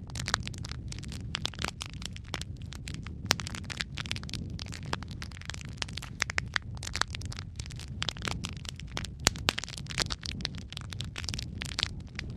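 Wood fire crackling in a fireplace: dense, irregular sharp pops and snaps over a steady low rumble of flame.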